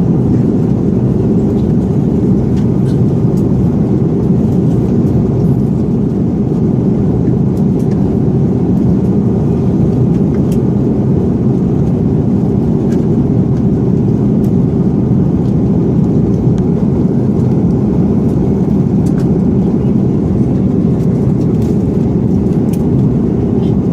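Steady cabin drone of an Airbus A330-300 airliner in flight: engine and airflow noise heard from inside the cabin, deep and even, with no change in level.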